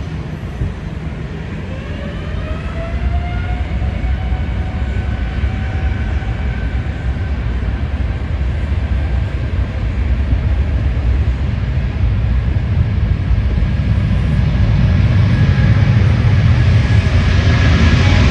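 Boeing 787 jet engines spooling up to takeoff thrust: a whine rises in pitch over the first few seconds, then holds steady while the low rumble and rush grow steadily louder as the takeoff roll builds.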